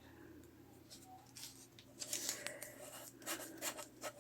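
Scissors snipping through paper, with paper rustling and handling between the cuts; the snips grow busier about halfway through.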